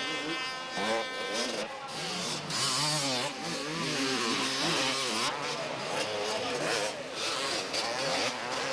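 250cc two-stroke motocross bikes racing, several engines revving up and down, their pitch rising and falling as they pass.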